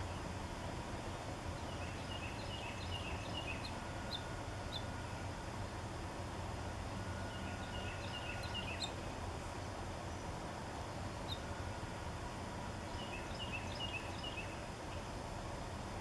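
A small songbird singing three short phrases of quick high notes, spaced several seconds apart, over steady low outdoor background noise.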